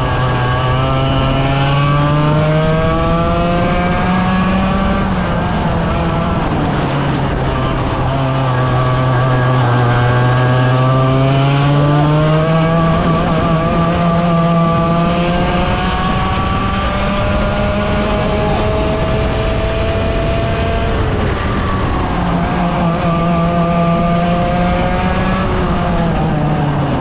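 A 100cc two-stroke kart engine at racing speed, its pitch climbing as it accelerates out of corners and dropping as it slows into them. There are several such rises and falls, with a long stretch of steady high revs through the middle.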